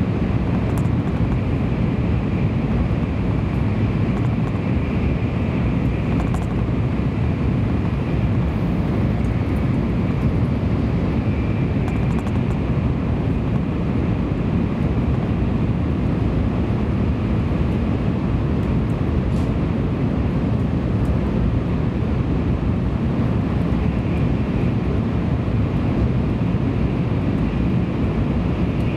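Steady rumble and rush of a Tokaido Shinkansen train running at speed, heard inside the passenger car, with a faint steady whine above it.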